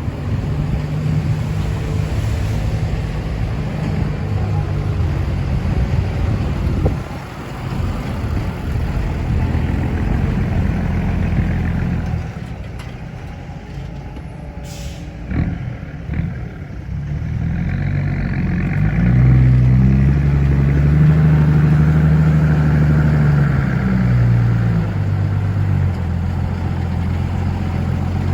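Diesel engines of ten-wheel dump trucks running and driving by, with a louder truck pulling past in the second half. A brief sharp sound cuts in about halfway.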